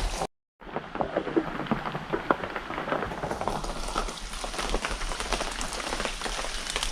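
Steady heavy rain, with many small drop hits pattering through it. The sound cuts out completely for a moment just after the start.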